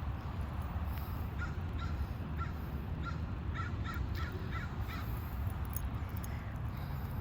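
Crow cawing in a run of short caws, several coming quickly one after another in the middle, over a steady low rumble.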